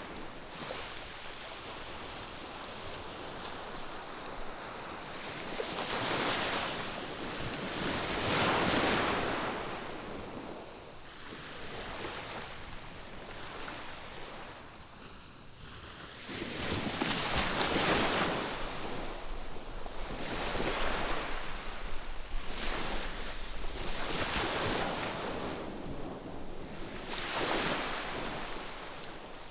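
Ocean waves breaking and washing on a sandy beach, the surf swelling and falling away every few seconds, with some wind buffeting the microphone.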